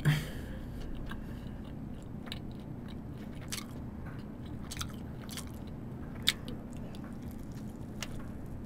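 A person biting and chewing cheese toast close to the microphone, with scattered small crunches and clicks.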